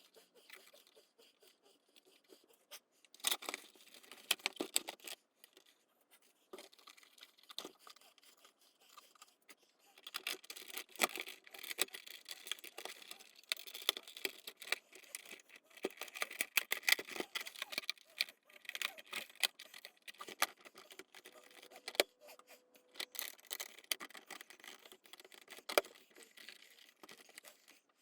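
Plastic parts of a Nespresso Citiz coffee machine being handled and fitted back together: irregular clicks, knocks and scraping, busier from about a third of the way in.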